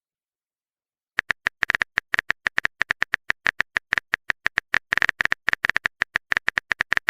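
Phone keyboard typing sound effect: a rapid, uneven run of short clicks, about eight to ten a second, starting after a second of silence.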